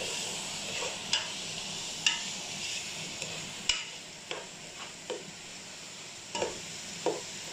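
Cubed pork with onion and garlic sizzling as it is sautéed in a nonstick pot, stirred with a spatula that knocks and scrapes against the pot in short, irregular strokes about once a second.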